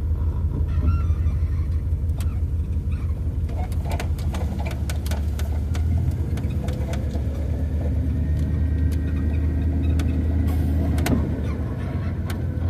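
1992 Dodge B250 van driving, its engine and road noise making a steady low drone, with scattered light clicks and rattles. Freshly tuned up, the engine runs without sounding like it is missing.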